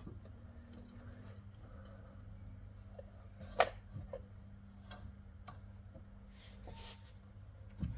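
A few light clicks and knocks as the removed front brake caliper of a Mercedes W221 S600 is hooked up out of the way, with one sharper click about three and a half seconds in.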